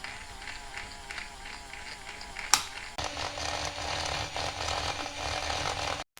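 A small electric motor running with a wavering whine and a regular pulse, a sharp snap about two and a half seconds in, then harsher, noisier running with a steady low hum that cuts off suddenly near the end.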